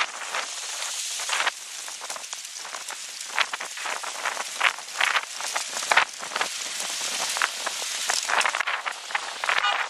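Monsoon dust-storm noise: a steady hiss with many scattered small crackling taps, as of rain or blown grit striking surfaces.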